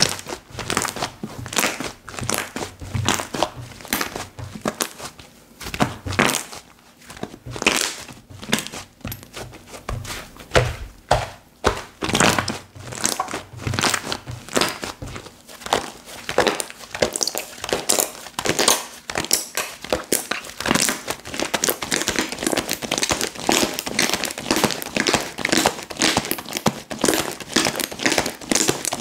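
Slime being squished and stretched by hand, making an irregular run of small clicks and pops that thickens in the second half.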